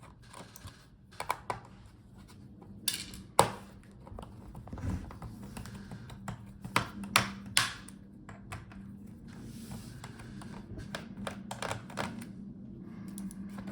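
Irregular small clicks and taps of a screwdriver working the screws out of a laptop's plastic bottom case, with one sharper click about three seconds in.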